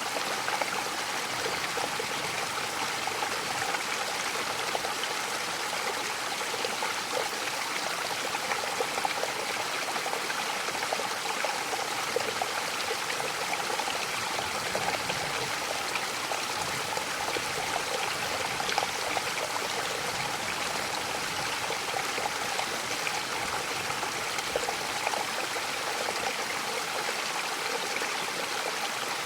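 Waterfall: falling water splashing and rushing in a steady, even wash.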